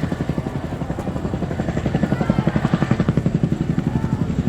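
CH-47J Chinook tandem-rotor helicopter flying low past, its rotors beating in a rapid, steady chop that grows slightly louder over the last couple of seconds.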